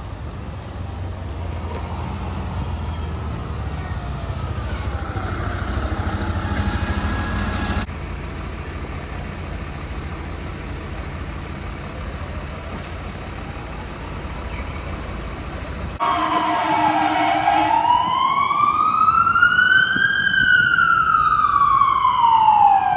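Fire truck responding: a heavy diesel rumble that builds, with a faint siren underneath. After an abrupt cut comes a quieter stretch, then a loud siren wail that sweeps slowly up in pitch and back down.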